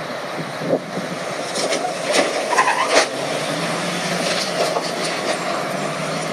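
Steady vehicle or road noise, with a few short knocks or clicks about one to three seconds in.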